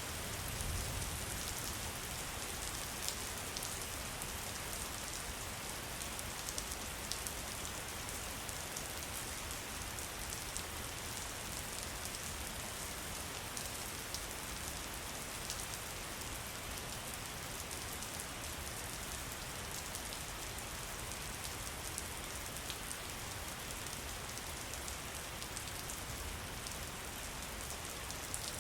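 Steady rain falling on a hard surface, an even hiss dotted with many sharp raindrop ticks. A brief low rumble about a second in.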